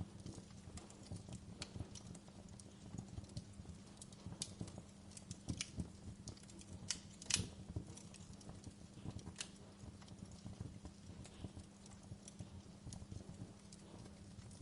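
Wood fire crackling in a fireplace: irregular pops and snaps over a low rumble, with one louder pop about seven seconds in.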